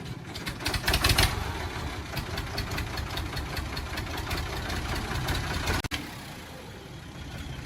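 Fiat 480 tractor's three-cylinder diesel engine running with a rapid, even knock, louder about a second in and running more quietly after a brief break near six seconds.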